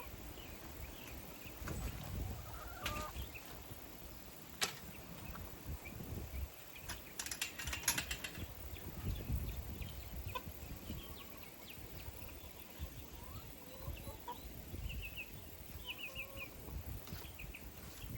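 Chickens clucking softly, over low wind rumble. There is a sharp click about four and a half seconds in and a short run of rattling clicks around seven to eight seconds in.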